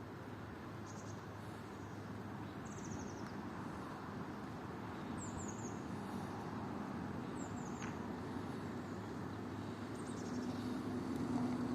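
Short, high bird chirps in quick groups of two or three falling notes, coming every couple of seconds over a steady background hum of distant traffic. A vehicle's hum grows louder near the end.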